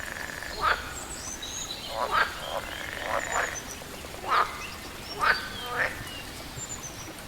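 Frogs croaking in a series of short, irregularly spaced calls, over a steady hiss of water, with small birds chirping faintly in the background.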